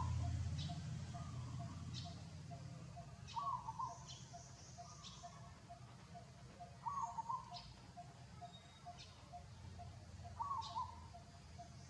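Birds calling outdoors: one short call repeats about every three and a half seconds over a steady run of quicker, softer notes, about three a second.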